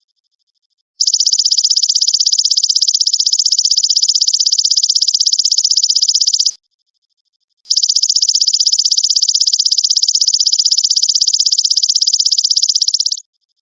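Belalang emas insect calling in two long, rapid buzzing trills, each about five seconds. The first starts about a second in and the second follows after a pause of about a second; the calling stops just before the end.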